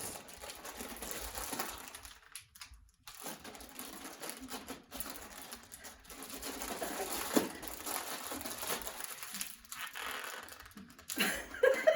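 Plastic package of chow mein noodles crinkling and rustling as it is handled and pulled at in trying to tear it open, with a short pause about two to three seconds in.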